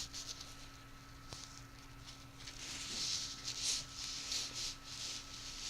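Soft scratching and rustling of an object handled close to a microphone, in uneven bursts with a few small clicks, over a faint steady electrical hum.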